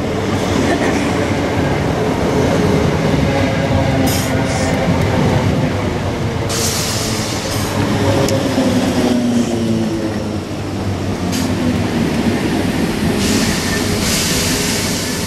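Electric multiple unit running past along the platform: a rumble of wheels on the rails with a humming whine that shifts up and down in pitch. Short bursts of hiss come in several times.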